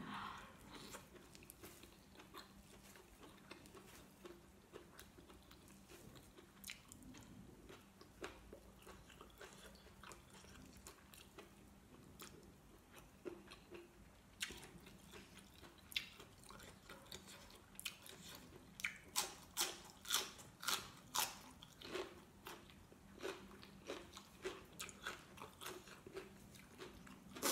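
Close-up chewing and crunching of a mouthful of sticky rice, braised chicken liver and raw greens, with wet clicks of the mouth. The chewing is faint at first and grows into a run of louder crunches past the middle.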